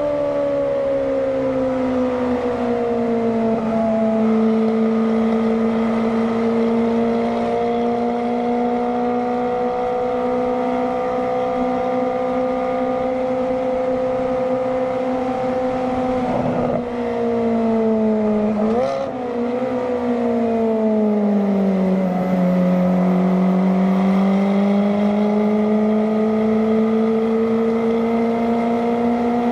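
Ferrari F430's V8 howling through a Kreissieg F1 Sound valvetronic exhaust at a fairly steady engine speed, its pitch slowly sagging and climbing. A little past the middle there is a brief break in the note, after which the pitch drops and then rises again toward the end.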